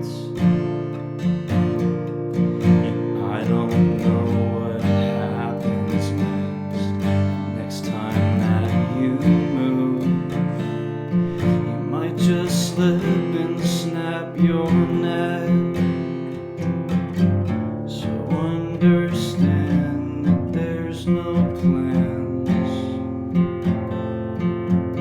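Instrumental passage of a song, led by strummed acoustic guitar.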